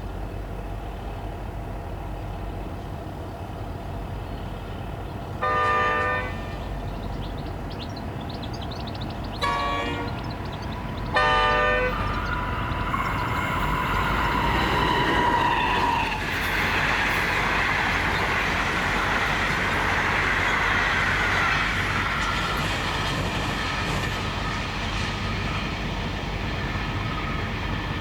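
Diesel locomotive horn sounding three short blasts, the first about five seconds in and two more close together around ten and eleven seconds, over the steady low hum of idling diesel locomotives. About halfway through, a train comes past: a falling whine, then a broad steady rush of wheels on rail.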